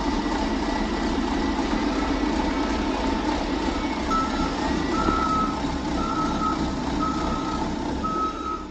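Truck engine running steadily, with a reversing alarm that starts beeping about four seconds in, about once a second.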